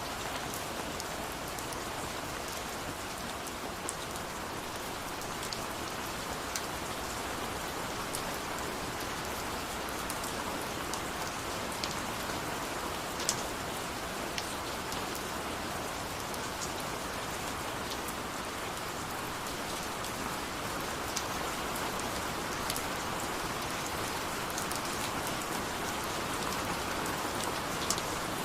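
Steady rain falling, a dense even hiss with scattered sharper drops landing close by.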